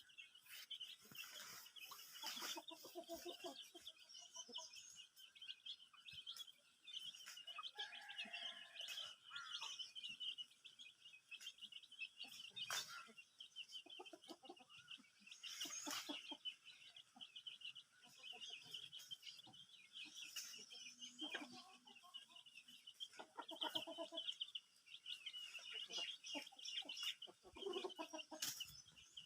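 Aseel chickens clucking at intervals over a steady high twittering chirp, with a few sharp clicks.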